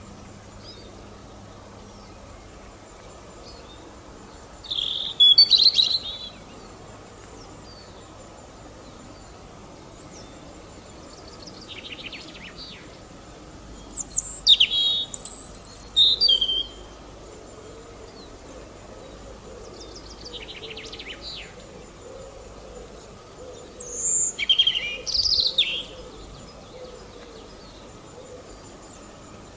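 Songbirds chirping in short spells of quick, high, sliding notes, three louder spells and two fainter ones, over a steady outdoor background hiss.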